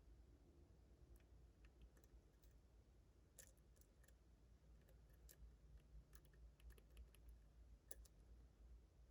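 Faint, irregular clicks and ticks from a lock pick and tension wrench working the pin stacks of a Ruko 600 lock, as pins are probed and set.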